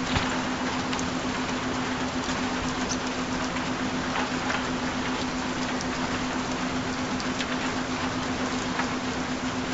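Steady rain with scattered drop ticks, over a constant low-pitched tone, the added frequency tone of a subliminal audio track.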